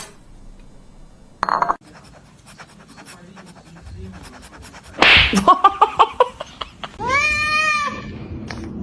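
Domestic cat sounds: a short loud noisy burst about five seconds in, then a quick stuttering series of short calls, and one long meow near the end. Faint scattered clicks come before them.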